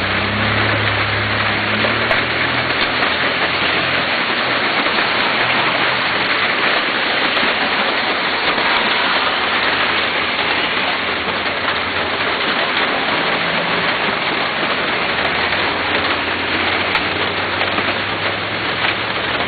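Heavy rain pouring steadily in a dense, even hiss, with a faint low hum under it in the first few seconds.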